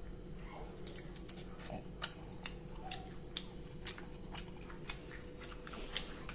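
Person chewing a bone-in piece of pepper chicken, with many irregular wet clicks and smacks of the mouth close to the microphone. A faint steady hum runs underneath.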